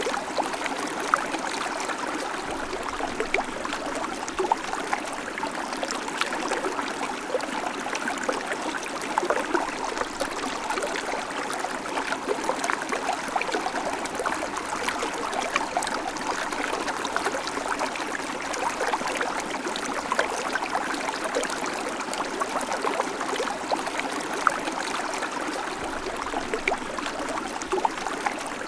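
Babbling creek: water running steadily over rocks, with many small splashes and gurgles in a continuous, even wash.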